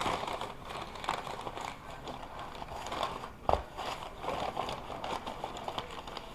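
Takeout food bag rustling and crinkling as the food is unpacked, with a sharper knock about three and a half seconds in.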